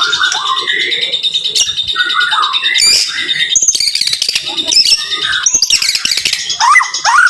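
White-rumped shama (murai batu) singing a rapid, dense song of varied whistles, chirps and harsh notes, ending in a run of quick rising whistled notes.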